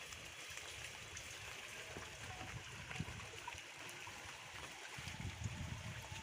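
Water running and trickling under steady rain, with a few dull low bumps near the end.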